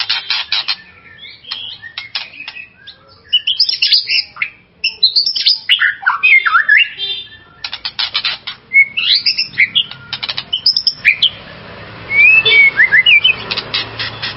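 White-rumped shama singing a fast, varied song: rapid rattling clicks mixed with whistled notes that sweep up and down. A steady background hiss comes in near the end under a few more whistles.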